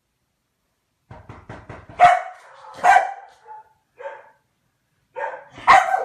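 A dog barking, about five sharp barks with uneven gaps, the loudest ones about two seconds in, a second later, and near the end. A few quick taps or clicks come just before the first bark.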